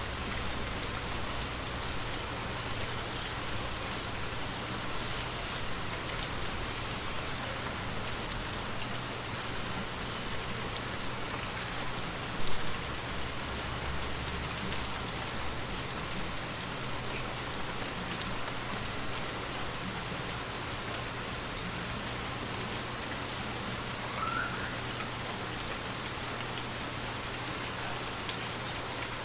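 Steady rain falling, an even hiss of drops on surfaces, with one sudden louder hit about halfway through.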